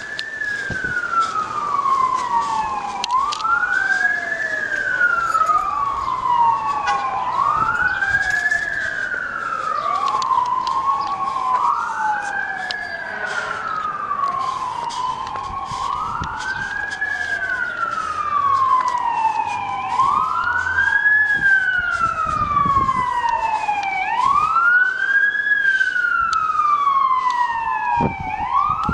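Two fire truck sirens sounding together in a slow wail, each rising quickly and falling slowly in pitch, about every three and a half seconds, out of step with each other.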